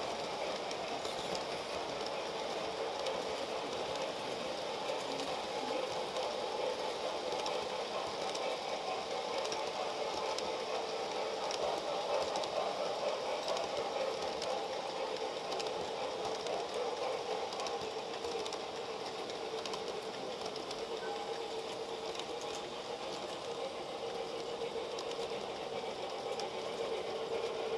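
Model train running steadily on its track, with the continuous whir of its small electric motor and wheels.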